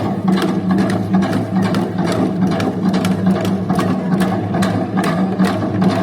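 Fast drumming, several sharp strikes a second, over a steady low tone in the dance music: accompaniment for a Korean janggu (hourglass drum) dance.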